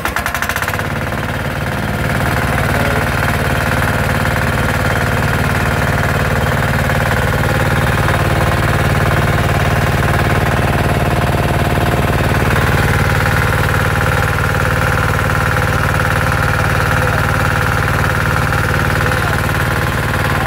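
10 HP Maestro single-cylinder diesel engine running steadily with a knocking beat. It picks up and gets louder about two seconds in, then holds steady.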